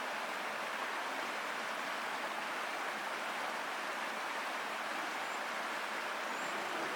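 Steady rushing of a stream, an even hiss of flowing water with no change in level. A few faint, short, high chirps come through in the second half.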